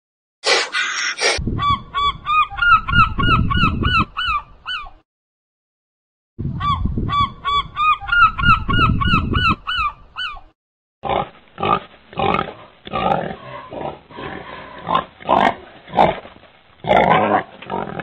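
Gulls calling in quick repeated rising-and-falling cries, about three a second, over a low rumble, in two runs with a silent gap between. After that a pig grunts and snorts in a steady irregular series.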